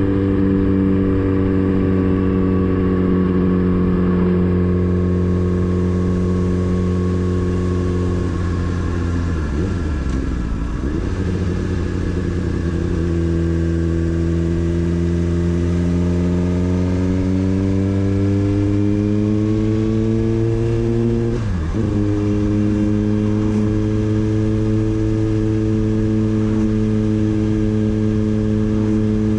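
Motorcycle engine running under way. The note sinks gently at first and goes rough for a couple of seconds about a third of the way in. It then climbs steadily as the bike pulls, drops sharply and recovers about three-quarters of the way through, and holds a steady pitch to the end.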